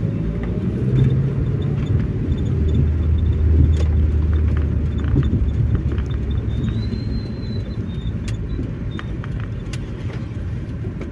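Car driving on the road: a steady low rumble of engine and tyres, with scattered light clicks and ticks over it.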